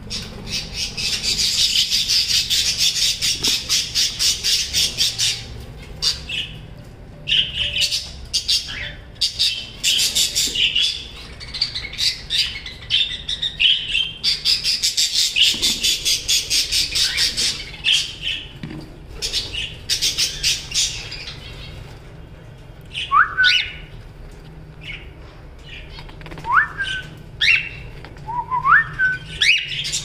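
Caged pet birds calling: long bursts of fast, raspy chattering with scattered chirps between them, then from about two-thirds in, several short whistles that each rise sharply in pitch.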